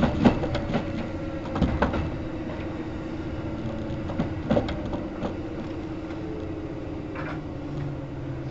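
Interior running sound of a Kintetsu 1810-series electric train: a steady hum under the floor, with the wheels clicking over rail joints several times in the first two seconds and again around four and a half to five seconds.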